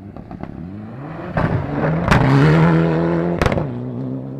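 Rally car engine at speed passing close, its note climbing and swelling to a loud peak, then holding steadier as it pulls away. Two sharp cracks about a second and a half apart come in the loudest part.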